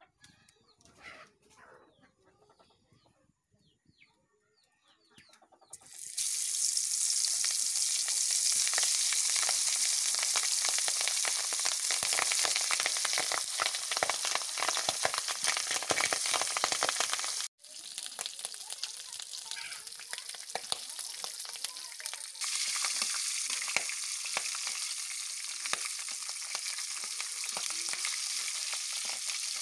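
Chicken leg pieces sizzling in hot oil in an iron wok. After a quiet start, the frying starts suddenly about six seconds in and keeps up as a loud, even hiss, with a ladle stirring the pieces near the end.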